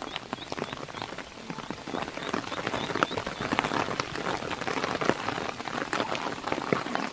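Heavy monsoon rain striking a moving car's body and windshield: a dense, irregular stream of sharp drop impacts over a steady wash of rain noise.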